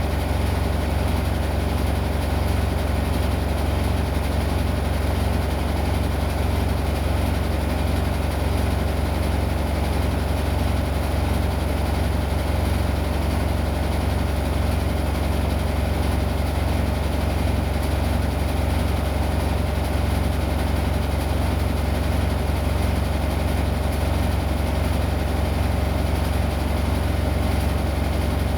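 Washing machine running with a steady low hum, even and unbroken throughout.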